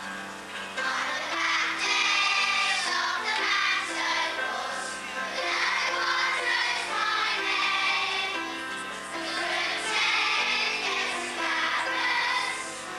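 A group of children singing a song together, with music playing along.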